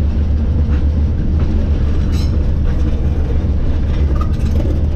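A century-old electric streetcar rolling along its track, with a steady low rumble, a few light clicks, and a brief high-pitched squeal about two seconds in.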